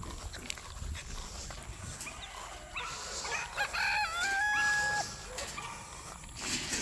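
A rooster crowing once, a call of about two seconds that climbs and then holds a steady note before cutting off. Other birds of the flock are heard faintly.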